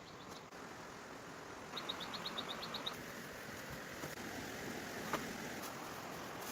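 A rapid run of about ten short, high chirps lasting about a second, over a steady outdoor hiss, with a single sharp click near the end.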